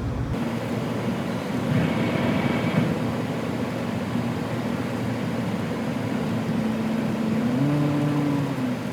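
Pickup truck engine and road noise heard from inside the cab as the truck drives up a hill, the engine note rising briefly near the end.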